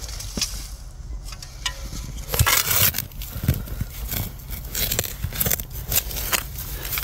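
Digging in soil around a buried sign: irregular scraping and crunching with scattered sharp clicks, loudest a little over two seconds in.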